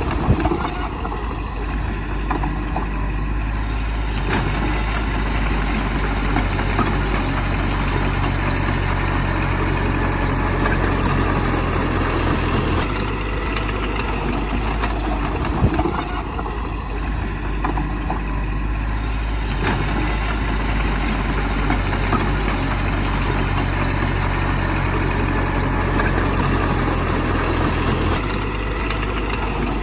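Heavy diesel engine of earthmoving machinery running steadily, its low note shifting up and down several times as the load changes, with a few short knocks.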